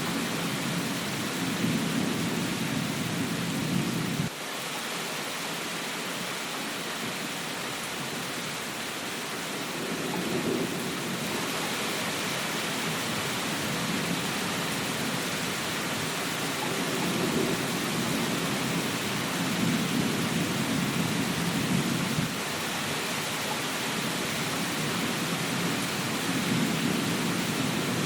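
Steady rain with low rumbles that swell and fade every few seconds. The rumble cuts off abruptly about four seconds in, then returns.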